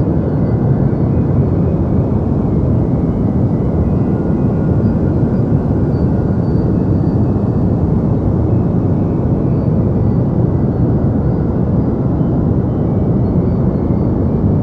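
Steady deep white noise: an even, unchanging rumbling hiss with most of its weight in the low end and only a thin hiss up high.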